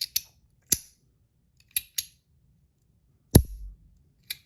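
Titanium magnetic coin-slider fidget snapping sharply from position to position, about seven clicks, some in quick pairs; the loudest, about three and a half seconds in, has a low thud under it.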